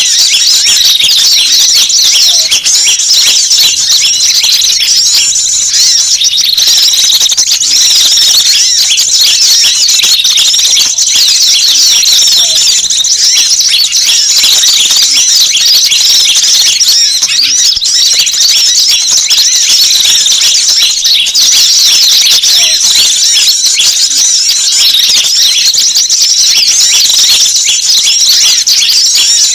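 A dense, unbroken chorus of rapid, high-pitched chirps and twittering calls from small wild birds, layered into one loud recording. It is a mixed-species bird-luring (pikat) track, played to draw small birds in.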